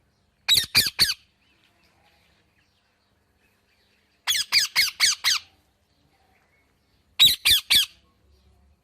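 A parrot squawking in three quick bursts of harsh calls: three calls about half a second in, a run of five or six near the middle, and three or four more near the end.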